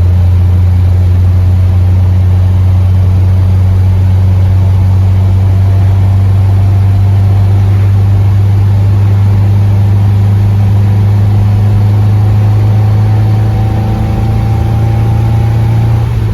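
Triumph Spitfire 1300's four-cylinder engine running under way, a loud steady low drone with a faint whine that slowly rises in pitch over the second half. The drone eases a little near the end.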